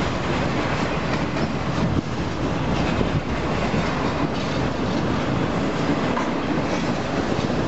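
Double-stack intermodal well cars rolling past at steady speed: a constant rumble of steel wheels on rail with light, irregular clicking and clacking.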